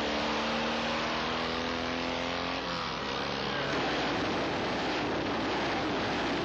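Historic racing motorcycle engine running hard, its pitch climbing slightly and then breaking off about two and a half seconds in, giving way to a rougher, noisier engine sound.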